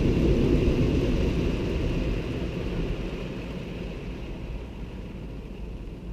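Automatic car wash equipment running as a steady rushing roar that fades gradually.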